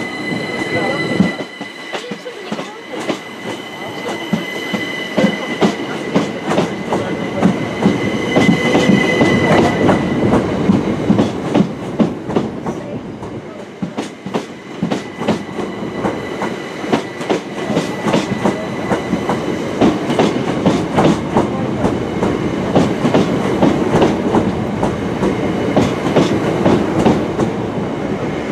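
A Southern Class 377 Electrostar electric multiple unit running past at a station platform, its wheels clicking over rail joints and pointwork continuously, over a steady rumble. A high steady whine sounds for about the first ten seconds, then fades.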